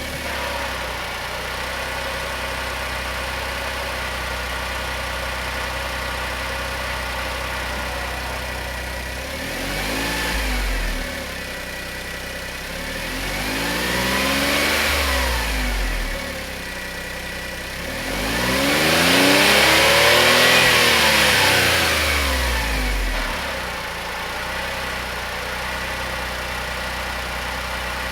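Honda S660's small turbocharged three-cylinder engine idling steadily through its exhaust, then revved three times: a short blip, a longer one, and a third that is longest and loudest. Each rev rises and falls back to idle.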